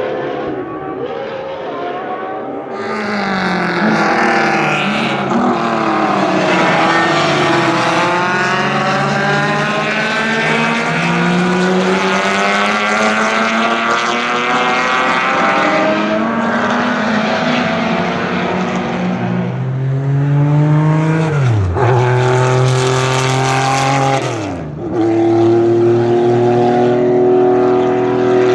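Race car engines running at high revs on a circuit, with several engines overlapping and their pitch climbing and falling through gear changes as they pass. Near the end one engine drops sharply in pitch twice, then climbs again.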